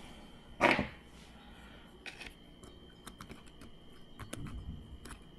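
Light, irregular clicks and taps from hands working the shift linkage and spring of a 1/10-scale RC crawler's transmission, with one short, louder rustle under a second in.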